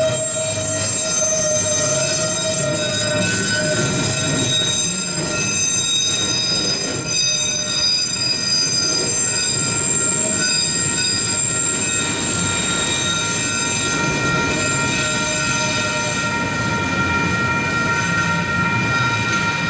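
Freight train of autorack cars rolling past at close range: a steady rumble of wheels on rail with sustained high-pitched wheel squeal.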